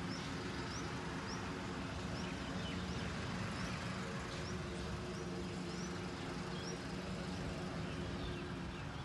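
A small bird calling with short, high, slightly rising chirps, about two a second, over a steady low background hum.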